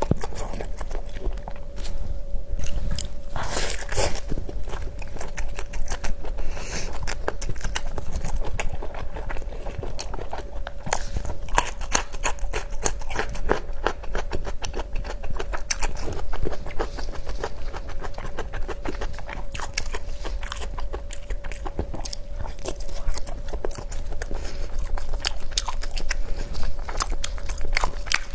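Close-miked mukbang eating: a person biting and chewing food, with a dense run of crunching, clicking mouth sounds. A faint steady hum runs underneath.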